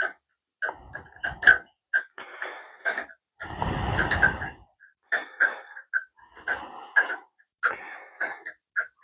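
Irregular clicks and clatter of metal tools and parts being handled, with a short rushing hiss about three and a half seconds in.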